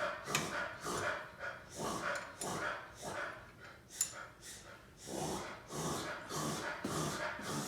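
Beagle vocalizing in a rapid string of short whining yelps and barks, with a brief lull about four seconds in.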